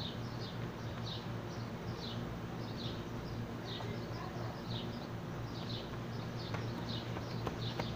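A bird calling over and over with short, high, downward chirps, about one a second and coming faster near the end, over a steady low hum.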